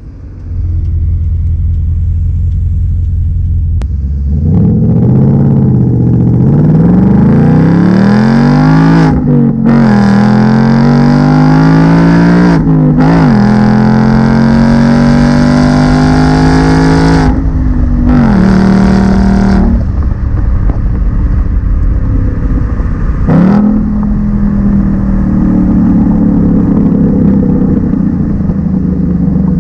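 2019 Ford Mustang GT's 5.0-litre V8 on the stock exhaust, accelerating hard up through the gears. The revs climb and fall sharply at each shift several times, then settle into a steady cruise with one more brief dip and rise.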